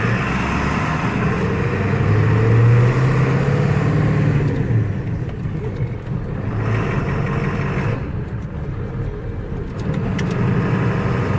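Truck engine pulling under acceleration through a manual gearbox. Its pitch rises, drops at a gear change about four and a half seconds in, then climbs and runs on.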